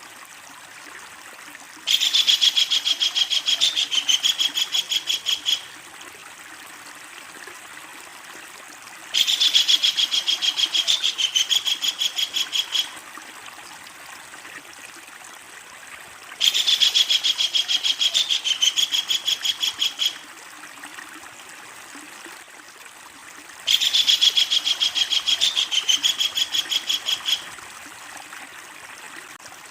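Kingfisher giving its long, loud chattering call: a fast run of repeated high notes lasting a few seconds, given four times at roughly even intervals over a faint steady hiss.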